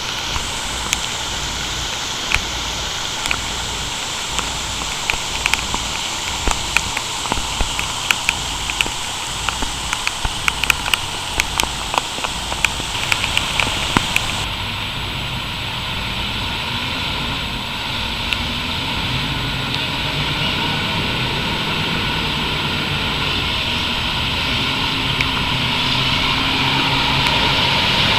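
Steady heavy rain with many sharp ticks of drops striking. After a cut about halfway, a vehicle's engine hum joins the rain and slowly rises and grows louder.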